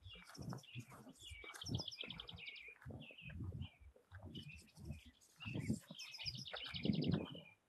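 Woodland birds singing: repeated short chirps and two fast trills of rapid notes, one in the first half and one near the end. Under them runs an irregular low rumbling on the microphone.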